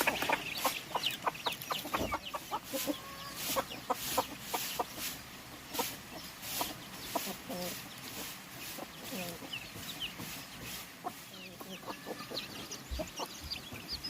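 Chickens clucking, with short high chirps and a quick run of sharp taps and clicks, thickest in the first half.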